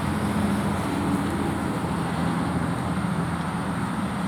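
Steady road traffic noise: vehicles running on a road, with a low engine hum underneath.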